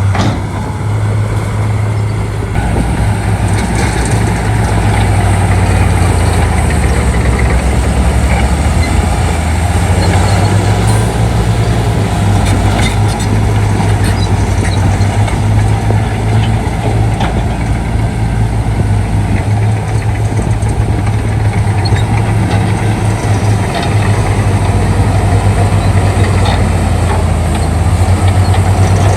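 Shantui D95 bulldozer's diesel engine running steadily under load, its low note dipping and recovering a few times as it works, with scattered light clicks and knocks.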